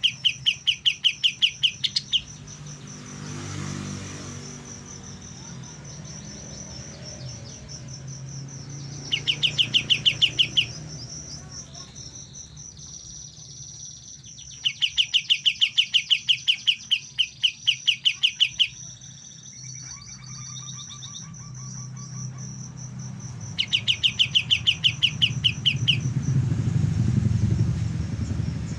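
Young kapas tembak songbird giving bursts of rapid, evenly repeated chirps, four runs of about one to four seconds each. Its song is still immature, as it is only beginning to learn. Under it runs a steady high-pitched insect-like whine, and a low rumble grows near the end.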